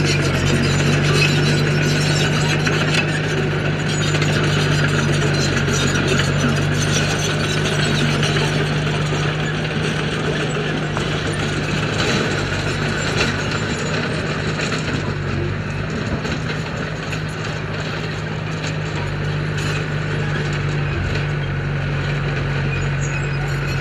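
Bulldozer's diesel engine running steadily under load, with a continuous metallic clatter and rattle from the machine working gravel.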